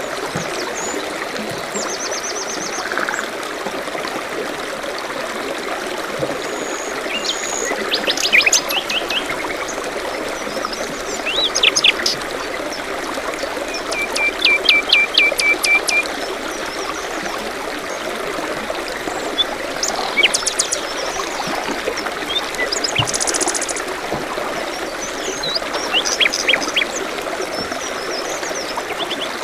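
Steady rush of running water, with small songbirds chirping and singing on and off over it, including a quick run of repeated notes about halfway through.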